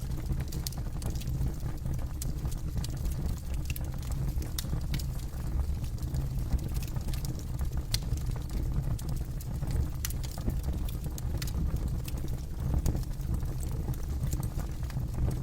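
Campfire crackling: irregular sharp snaps and pops over a steady low rumble.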